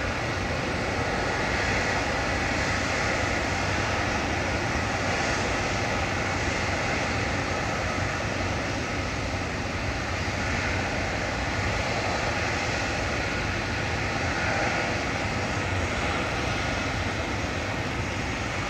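Steady jet airliner engine noise, an even rushing hum that holds at the same level throughout.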